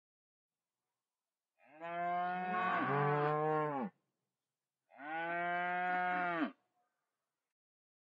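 Cattle mooing: two calls, the first about two seconds long with a second, lower-pitched moo overlapping its middle, the second about a second and a half long with a pitch that falls at the end.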